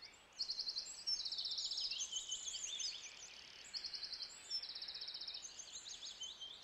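Outdoor birdsong: repeated fast trills lasting about a second each, mixed with quick high chirps and whistles, over a faint steady hiss.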